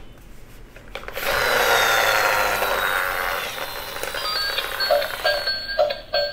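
Battery-operated Doraemon toy car's electronic sound effect. About a second in, a loud hissing noise starts. In the second half come short electronic beeps at stepping pitches.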